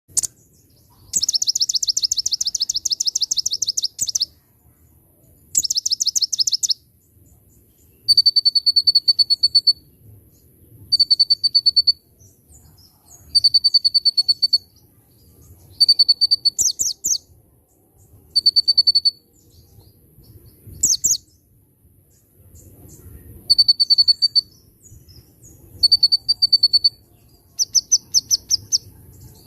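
A konin songbird singing in repeated bursts of rapid, high-pitched trills, each burst one to three seconds long and coming every two to three seconds. Bar-winged prinia (ciblek) phrases are mixed into its song.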